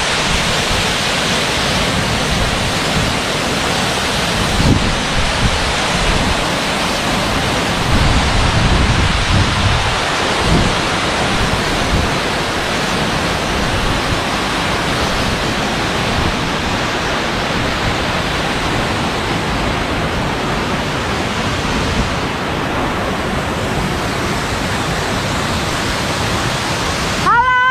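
Waterfall rushing close by: a steady, dense roar of falling water with no pauses. A brief tone with overtones sounds right at the end.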